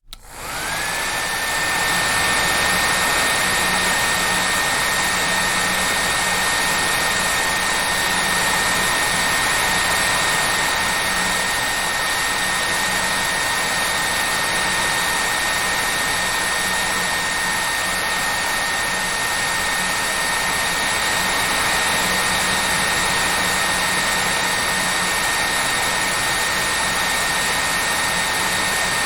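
Hair dryer starting up, its motor whine rising to a steady high pitch within about a second, then running steadily with a loud rush of air.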